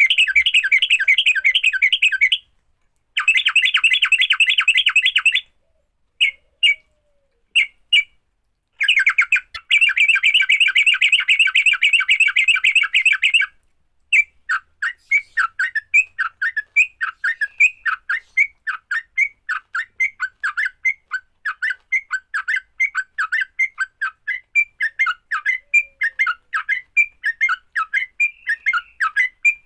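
Yellow-vented bulbul (trucukan) fighting song. For roughly the first half it gives fast rattling chatter in long bursts with short gaps. After that it keeps up a steady run of separate sharp chirps, about three a second.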